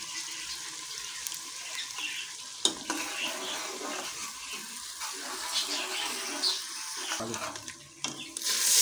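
Crushed onion, garlic and ginger sizzling in ghee in an aluminium pressure cooker, with a metal ladle stirring and scraping against the pot. There is one sharper scrape about two and a half seconds in, and the sizzling gets much louder near the end.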